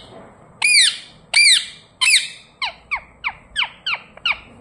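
Indian ringneck parrot squawking: three loud arched calls about two-thirds of a second apart, then a quicker run of shorter, falling chirps at about three a second.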